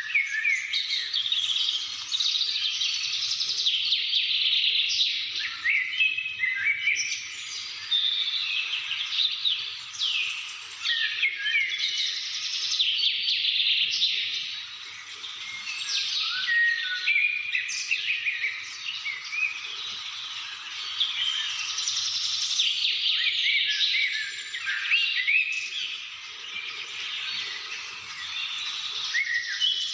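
Many small birds chirping and singing together in a dense chorus, with quick overlapping notes and short rising and falling whistles.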